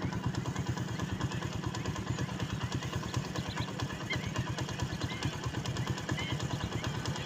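A steady low rumble of rapid pulses, like an engine running or wind on the microphone, with small short bird chirps sounding now and then over it, more of them in the second half.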